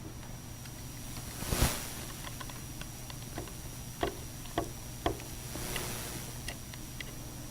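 Handling noise as a vent window assembly with a tight rubber gasket is worked into a truck door frame: a rubbing scrape about a second and a half in, then three light knocks and another soft rub, over a steady low hum.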